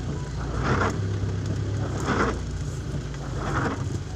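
Car engine idling with windshield wipers swishing in the rain, one sweep about every one and a half seconds.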